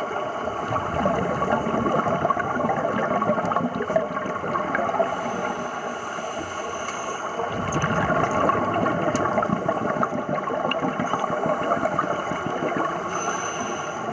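Bubbling and gurgling of scuba divers' exhaled air heard underwater, a steady crackling rush that swells louder for a few seconds at a time.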